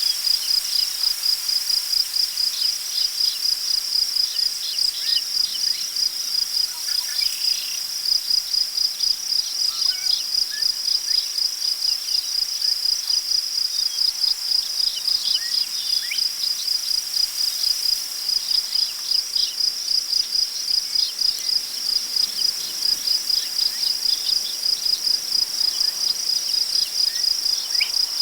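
Crickets chirping in a steady, even rhythm of about two to three chirps a second, with scattered faint short bird calls and a light rustle of wind in grass.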